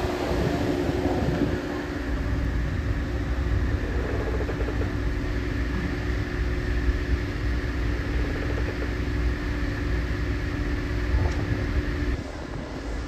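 Steady engine hum over a low rumble, the hum cutting off about twelve seconds in.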